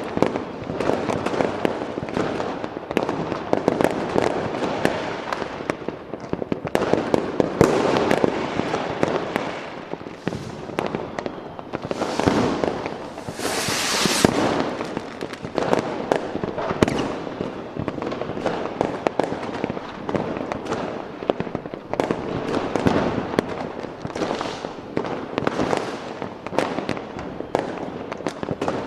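Fireworks going off continuously: a dense run of bangs and crackling, with a high hiss a little before halfway through.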